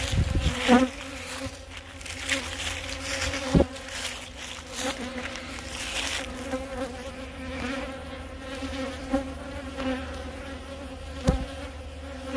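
Many honey bees buzzing close around, an agitated colony stirred up after its hive was opened. A few sharp knocks cut through the buzzing.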